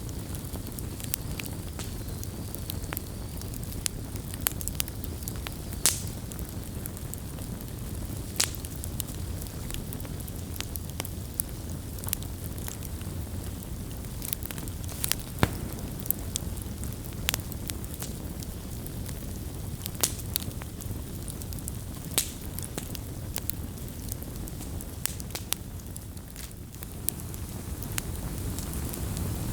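Wood campfire burning, crackling with many irregular sharp pops and snaps over a steady low rumble of flames.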